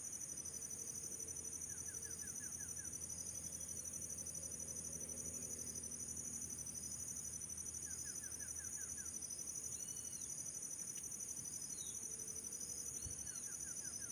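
Steady high-pitched insect chorus, pulsing rapidly, with birds calling over it: three short runs of about six quick notes each, and a few brief arching whistles.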